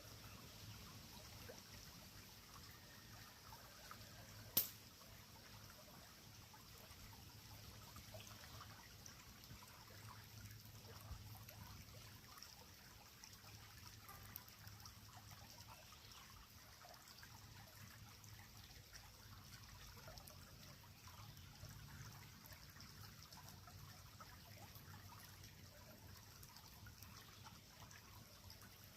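Faint creek water trickling, with scattered small crackles from a wood fire and one sharp pop about four and a half seconds in.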